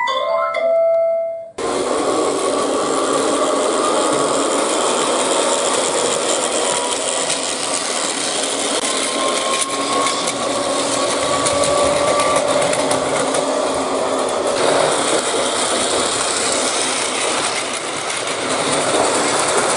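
A short marimba jingle ends, then an electric train is heard running: a steady rumble with a faint whine that rises slowly in pitch partway through.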